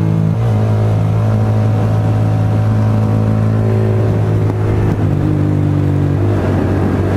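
Motorcycle engine running steadily while riding, with road and wind noise. The engine note shifts slightly about five seconds in and again near the end.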